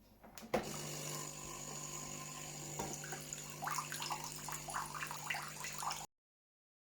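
De'Longhi Magnifica EVO coffee machine pumping rinse water out through its opened steam valve during the descale rinse: a steady pump hum with water splashing into a bowl, after a click about half a second in. The sound cuts off suddenly near the end.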